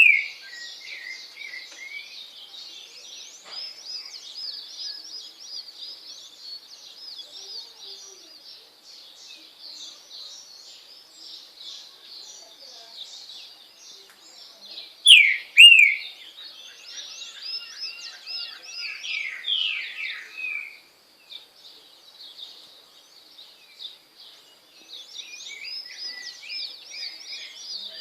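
Trinca-ferro (green-winged saltator) giving loud, downward-sweeping whistled phrases: one ending just after the start, a loud one about halfway through, and softer ones a few seconds later. Throughout, small birds keep up a constant high twittering.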